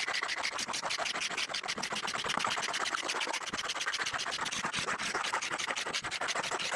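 Dried glue being scraped off a wooden workbench top by hand, in rapid, even back-and-forth strokes of about seven a second.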